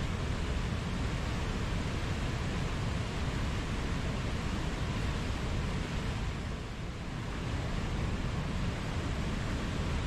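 Running water rushing steadily, a dense even hiss heaviest in the low end, easing slightly for a moment about two-thirds through.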